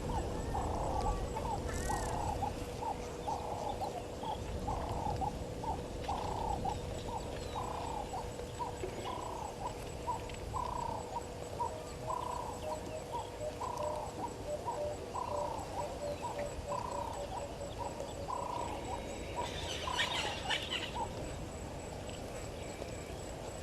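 Wild animal sounds at a waterhole: a creature gives short, falling calls over and over, about one or two a second, over a steady hum-like tone. A brief burst of high chirping comes near the end.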